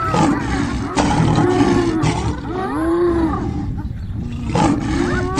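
Several animals calling at once: overlapping rising-and-falling cries over a steady low rumble, with a few sharp knocks.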